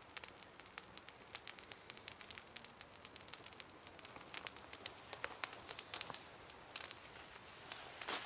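Campfire crackling, with irregular sharp snaps several times a second.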